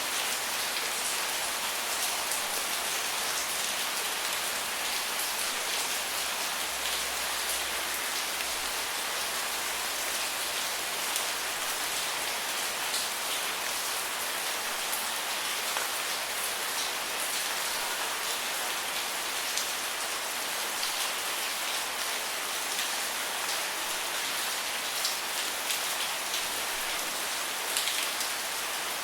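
Steady rain falling, a constant hiss dotted with many small drop ticks on a surface.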